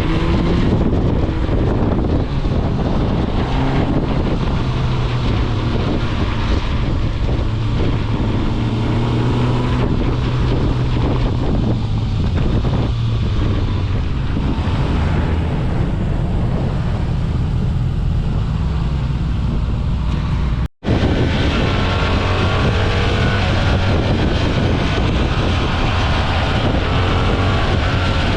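Motorcycle engine running under way, with wind buffeting the microphone. After a brief cut about three quarters of the way through, the engine note rises and falls as the bike changes speed.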